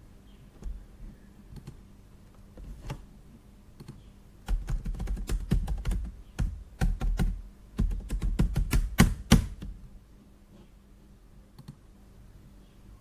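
Typing on a computer keyboard: a few stray key clicks, then a dense run of typing from about four and a half seconds in to nearly ten seconds, then a couple of scattered clicks.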